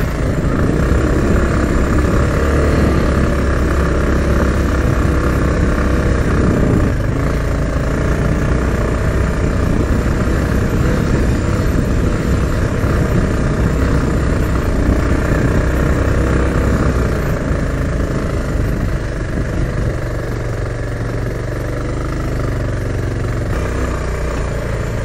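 Bajaj Pulsar 220F single-cylinder engine running at low speed while the motorcycle is ridden over a rough gravel track. The engine sound eases off a little in the last few seconds.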